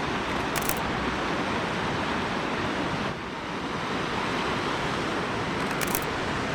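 Steady rushing of falling water from a waterfall, a dense even roar with no break. Two short high hisses sound, one near the start and one near the end.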